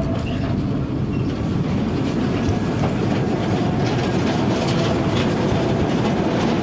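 Narrow-gauge sugar cane train running along the track, its wagon wheels clacking over the rail joints over a steady rumble.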